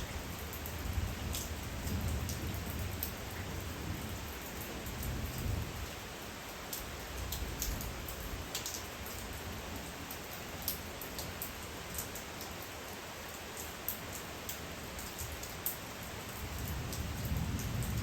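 Steady rainfall with individual raindrops ticking sharply and irregularly. A low rumble under the rain swells during the first several seconds, fades, and returns near the end.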